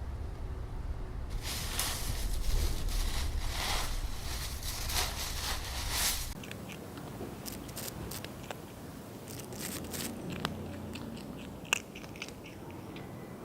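Dry fallen leaves crunching and rustling underfoot in a run of crackly bursts for about the first six seconds, then only scattered small crackles and clicks, with one sharp click near the end.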